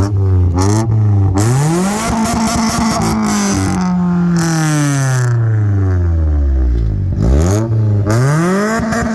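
Car engine revved hard several times: a few quick blips, then one long rev that climbs and slowly falls back, then more short blips near the end.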